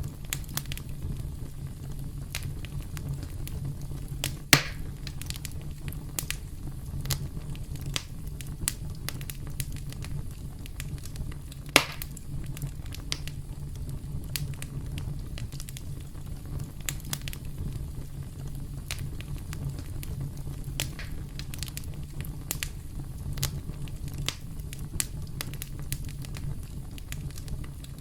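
Campfire crackling: a steady low rumble of burning with many small snaps throughout. Two louder, sharper pops stand out, one about four and a half seconds in and another about twelve seconds in.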